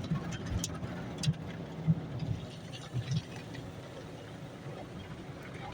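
Automatic car wash equipment working around a car, heard from inside the cabin: a steady low rumble with irregular thumps and a few sharp clicks.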